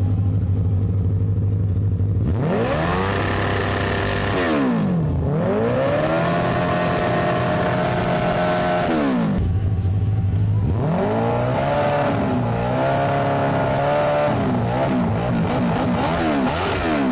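A go-kart's motorcycle engine idles, then roars as it is revved up and held at high revs three times. Each time the pitch climbs quickly and falls back. The third run wavers up and down before dropping near the end.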